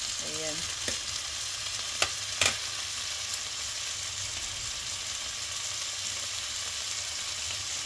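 Turkey fillets sizzling as they fry in oil in a nonstick pan, a steady hiss, with two sharp clicks a little after two seconds in.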